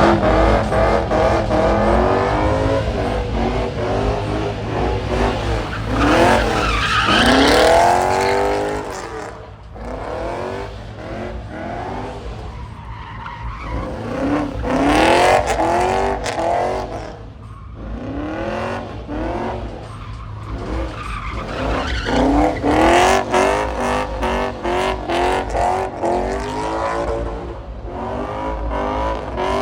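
Car engines revving hard again and again, their pitch climbing and dropping over and over, over a steady low rumble, with tire squeal mixed in.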